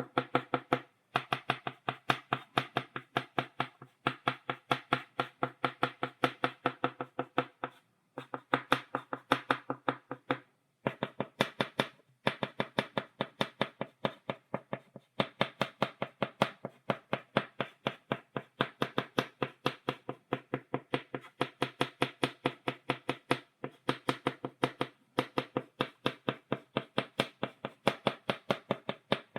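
Chalk tapping on a blackboard to make dots: quick, even taps, several a second, in runs broken by short pauses.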